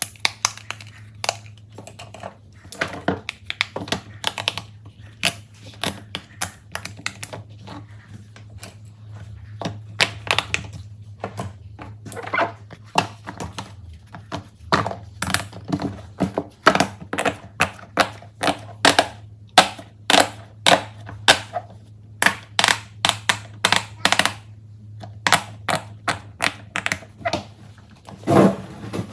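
Fidget toys being pressed and handled: a long, uneven run of sharp pops and clicks, some in quick flurries, over a low steady hum.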